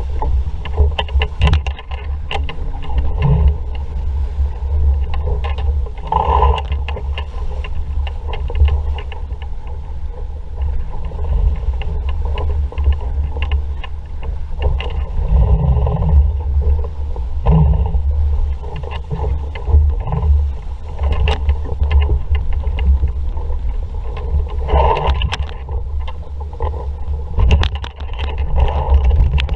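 Wind buffeting the microphone while water rushes and slaps against the hull of an RS Vareo sailing dinghy under way in a breeze, with frequent small knocks and splashes.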